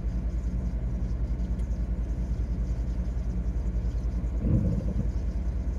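Low, steady engine idle rumble of a car heard from inside its cabin, with a fast even pulsing throb. A brief, slightly louder low sound rises over it about four and a half seconds in.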